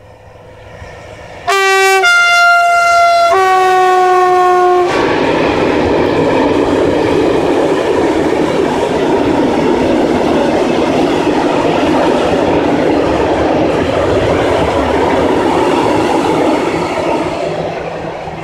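Bombardier TRAXX class 285 diesel locomotive sounding its two-tone horn for about three seconds, low, then high, then low again: the Polish Rp1 'attention' warning signal. Then its long train of tank wagons rolls past in a steady rumble that starts to fade near the end.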